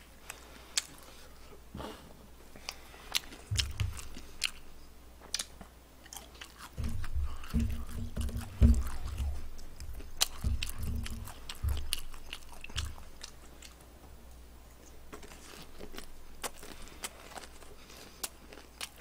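A man chewing and crunching fried chicken and raw onion slices close to a desk microphone, with many sharp crunches and mouth clicks. In the middle stretch there is a run of dull low thuds.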